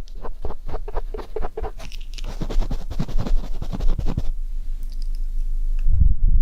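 Ear pick scratching and scraping in the ear of a binaural microphone, a dense run of quick clicky scratches for about four seconds, then quieter, with a duller low rubbing starting near the end.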